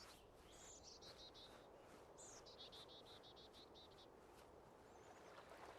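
Faint bird song: two trills of quick repeated high notes, each stepping down in pitch, starting about half a second and about two seconds in.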